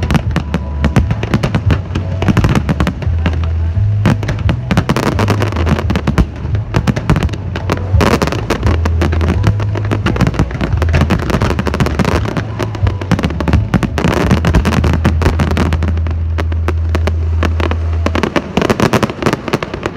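Fireworks bursting in a dense, near-continuous run of bangs and crackles over loud music with a heavy bass line. The bass stops near the end while the bursts go on.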